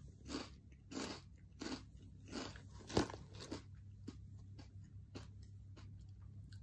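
Someone chewing crunchy puffed pork rind snacks (pork puffs) with the mouth closed: a run of crisp crunches about every half second or so, the loudest about three seconds in, growing weaker near the end.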